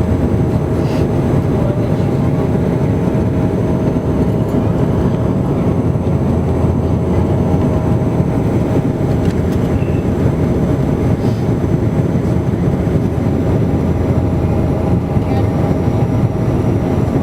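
Steady drone of a Bombardier Q400's Pratt & Whitney PW150A turboprop engines and propellers heard from inside the passenger cabin: a constant low rumble with a steady hum of tones over it.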